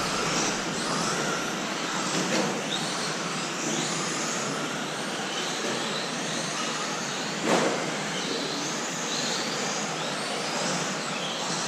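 Several 1/10-scale electric RC racing trucks with brushless motors running on a track, their motor whines overlapping and rising and falling in pitch as they accelerate and brake. A sharp thump about seven and a half seconds in.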